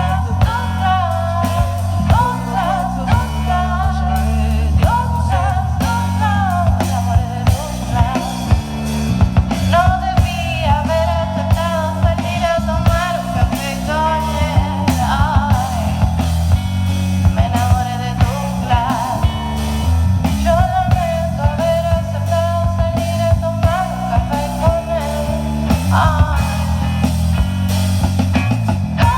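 A rock band playing live: a full, dense low end under a lead melody that slides up and down in pitch.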